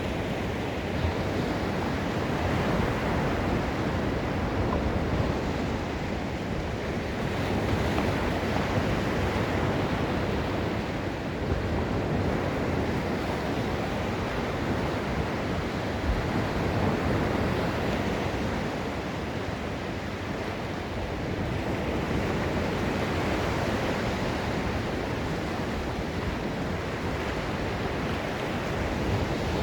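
Gulf of Mexico surf washing onto the beach: a steady rush of breaking waves that swells and eases every few seconds.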